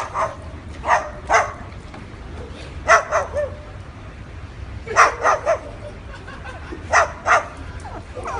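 A dog barking in short groups of two or three barks, about every two seconds.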